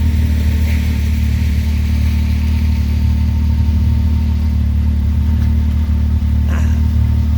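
Vehicle engine running steadily at low trail speed, a constant low drone, with one short knock about six and a half seconds in.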